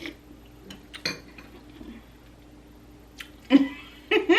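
A spoon clinking against a bowl a few separate times, then a short burst of voice near the end.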